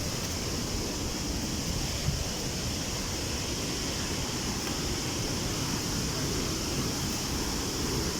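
Steady rushing roar of a nearby waterfall, an even noise with no breaks.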